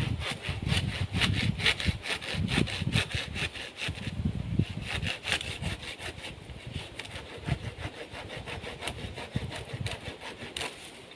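Wood being cut with a hand saw: a quick, even run of rasping strokes, about five a second, with a short break about four seconds in. The strokes grow weaker toward the end.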